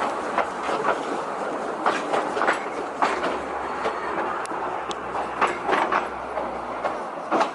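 Train running on rails, with a steady rumble and irregular sharp clicks and knocks as the wheels pass over the rail joints.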